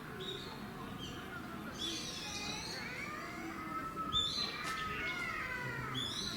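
Birds chirping, many short overlapping calls that slide down in pitch.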